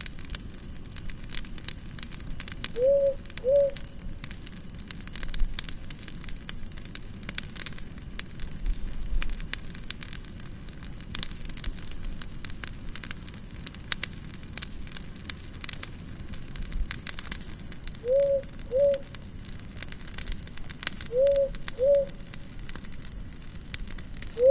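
Campfire crackling and popping throughout, with many sharp snaps. A two-note low call recurs four times, and a quick run of about eight high chirps comes about halfway through.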